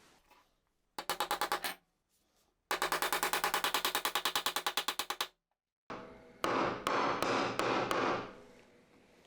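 A woodworking tool working on wood in rapid, evenly repeated strokes, about eight to ten a second, in two bursts. After a short break comes a rougher scraping with a few sharp clicks.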